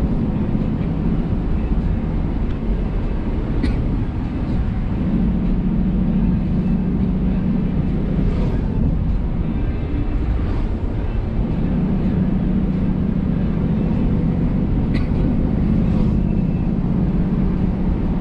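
Car engine and road noise from a car being driven hard on a winding road, the engine note swelling and easing back a few times as the throttle comes on and off. A couple of sharp clicks are heard over it.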